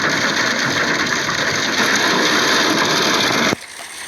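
Steady rush of heavy storm rain and wind on a car driving through a tornado-producing storm, with road and engine noise beneath it. It cuts off suddenly about three and a half seconds in.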